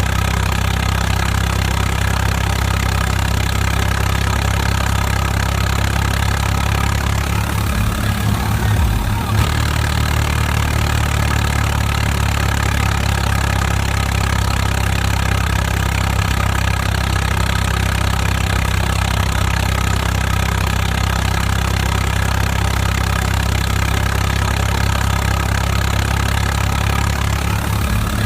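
Tractor engine running steadily, with a brief unevenness in its note about eight to nine seconds in.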